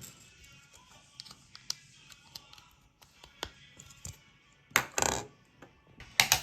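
Light clicks and taps of small hard parts being handled, with a louder clatter that rings briefly about five seconds in and two sharp clicks near the end.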